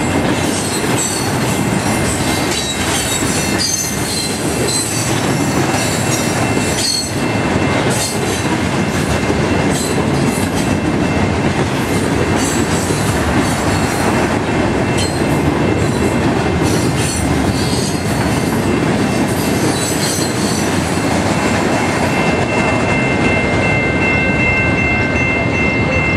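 Freight cars of a Canadian National train rolling past a grade crossing, a steady rumble with wheels clicking and squealing on the rails. The crossing's warning bell rings alongside, and comes through clearly in the last few seconds as the clicks and squeals die away.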